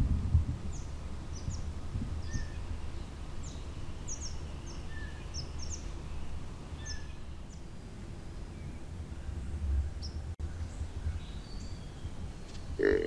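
Small birds giving short, high chirps scattered every second or so over a low steady rumble. Right at the end, a louder low grunt-like call begins.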